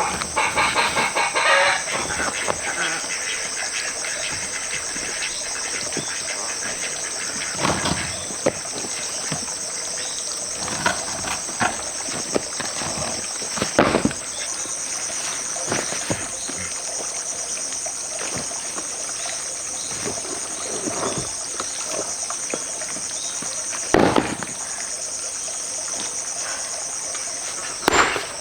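Steady, high-pitched chorus of insects, with a chicken calling in the first second or two. A few sharp knocks come at intervals, the loudest well past the middle.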